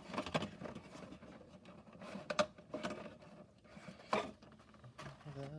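Scattered light clicks and rustles of plastic and cardboard playset parts being handled and fitted together, with a brief low hum of a voice near the end.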